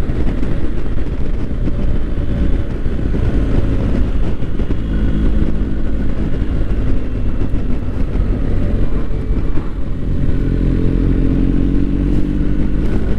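BMW GS motorcycle's boxer-twin engine running under way, its pitch climbing over the last few seconds as the bike accelerates.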